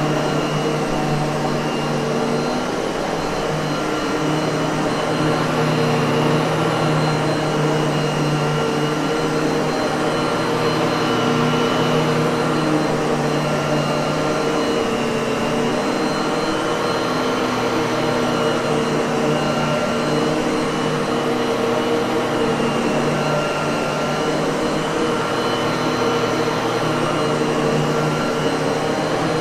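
Miele vacuum cleaner motor running steadily, a continuous even hum and rush of air with no change in speed.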